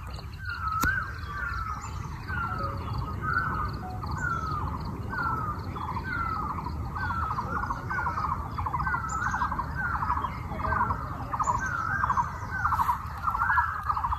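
A bird calling over and over: a short falling note with a quick rattle after it, repeated evenly about three times every two seconds, over a low steady background rumble.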